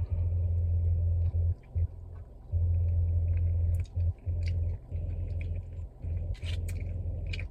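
Close-miked eating of chicken wings: scattered small crunches and mouth clicks over a loud low rumble that drops out and comes back several times.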